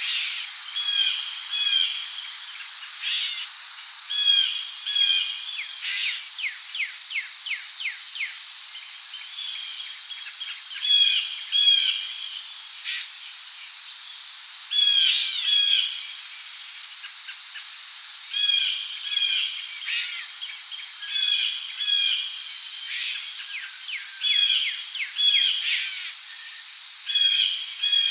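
Rainforest ambience: a steady high-pitched drone of crickets and other insects, with birds repeating short chirping phrases every second or two. A quick run of sliding notes comes about six seconds in.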